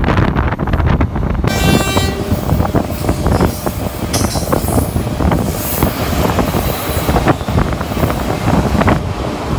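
Heard from the open door of a moving train: an Indian Railways electric locomotive horn sounds briefly, then an oncoming express passes close on the next track with a rushing noise and rapid, irregular wheel clatter.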